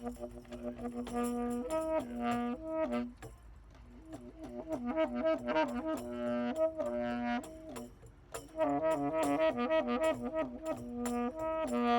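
A wind instrument improvising in three phrases, its notes rocking back and forth between two neighbouring pitches, with short gaps between phrases.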